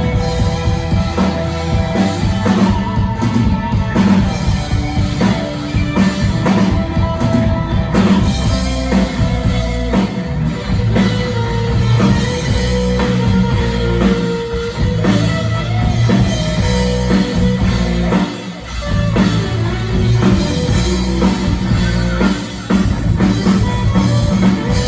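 A rock band playing live and loud through the PA: drum kit, guitars and bass, with a short break about eighteen seconds in. The music dies away at the end.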